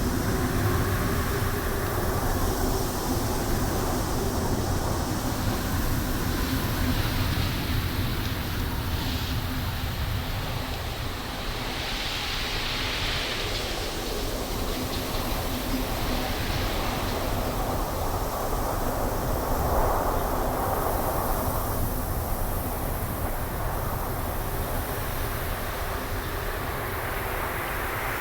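Wind blowing through trees: a steady low rumble with gusts that swell and fade, one near the middle and another about two-thirds of the way in.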